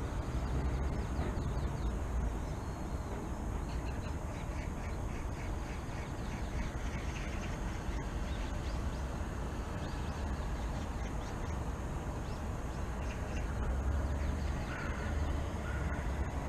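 Birds calling in quick runs of short notes over a steady low rumble of city background noise.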